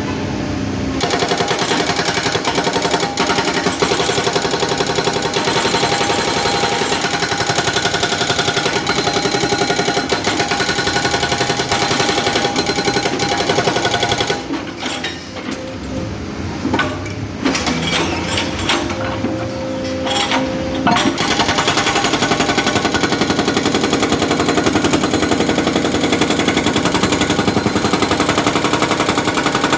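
Hydraulic breaker (a big jackhammer on a hydraulic arm) hammering a concrete road with rapid repeated blows. It pauses for several seconds midway, leaving scattered knocks, then starts hammering again.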